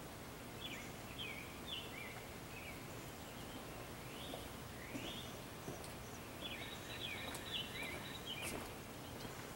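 Birds calling in short, sliding chirps in several bursts, over a steady outdoor background hiss.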